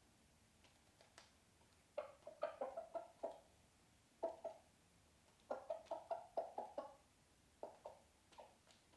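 Icelandic chicken clucking in quick runs of short clucks: one run about two seconds in and another a little past the middle, with single clucks scattered between and near the end.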